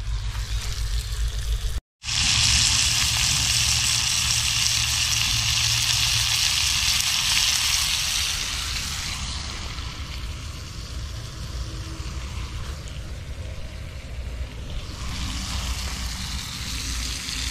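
Chicken frying in hot oil, a steady hissing sizzle that starts after a brief cut-out about two seconds in, is loudest for the next several seconds, then softens. A low rumble runs underneath.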